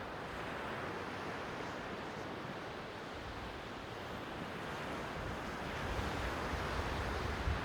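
Sea waves washing on the shore as a steady hiss. A low rumble of wind on the microphone builds near the end.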